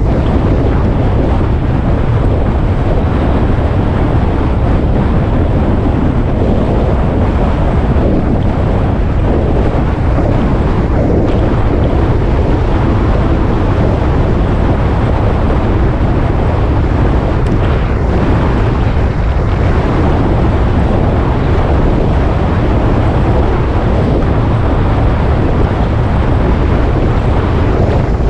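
Steady wind rush buffeting the microphone on a moving motorcycle, mixed with the bike's engine and road noise, loud and unbroken throughout.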